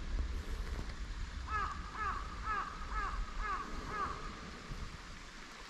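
A bird calling six times in an even series, about two calls a second, each call a short arched note; the calls start about a second and a half in and stop near the two-thirds mark.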